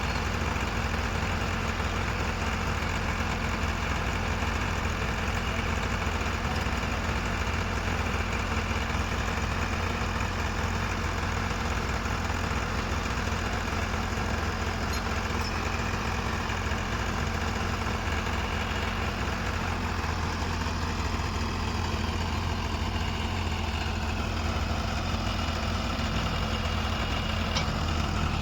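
New Holland 45 HP tractor's diesel engine running steadily at idle, a low even hum.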